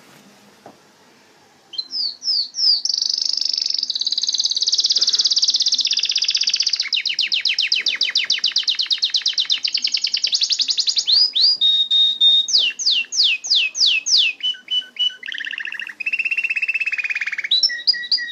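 Canary singing one long, unbroken song that starts about two seconds in: fast trills and rolls, runs of rapidly repeated falling whistled notes, and a few held tones.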